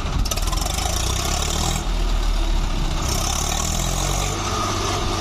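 Swaraj 744 tractor's three-cylinder diesel engine running steadily, with a hiss that comes in twice for a second or so.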